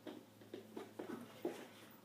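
A dog making faint short sounds during toy play, several soft ones in quick succession.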